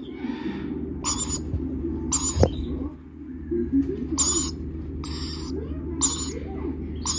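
Lorikeet chicks giving short raspy, hissing calls, repeated about once a second, over a steady low hum.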